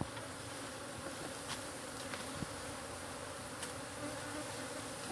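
Many honey bees buzzing in a steady, dense hum, with a few faint clicks.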